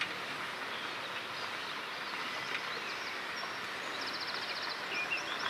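Small birds chirping over a steady outdoor hiss, with one rapid trill about four seconds in.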